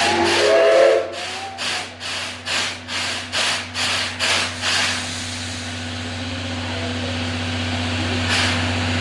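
Steam locomotive exhaust chuffing at about three beats a second, then stopping about five seconds in, leaving a steady hiss of steam with a low hum underneath. A brief pitched tone sounds near the start.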